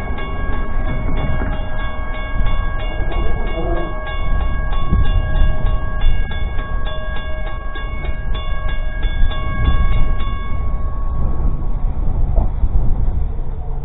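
A train passing with a low, steady rumble, while a bell rings rapidly and evenly, about three strokes a second. The bell stops about eleven seconds in and the train rumble carries on.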